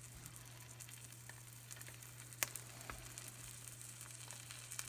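Faint sizzle of Reuben sandwiches frying in a nonstick pan, with scattered small crackles and one sharp click about two and a half seconds in.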